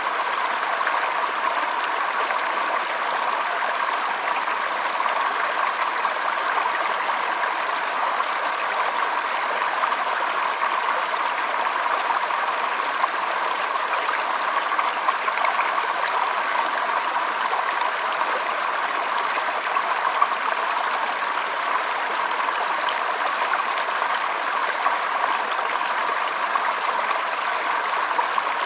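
Shallow stream trickling and flowing over stones: a steady babble of water with small splashes here and there.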